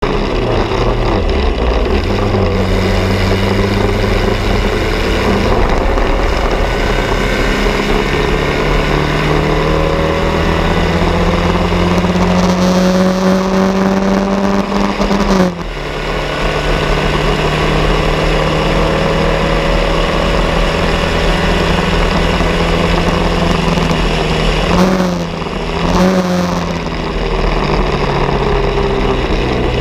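Bianco racing car's engine running hard, its pitch climbing slowly for several seconds and then dropping sharply about halfway through. It then holds a high steady note, with a couple of short dips and quick rev blips near the end.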